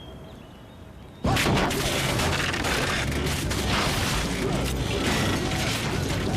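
Sudden loud boom about a second in, then continuous crashing and smashing as a truck is destroyed, with many hits in a row.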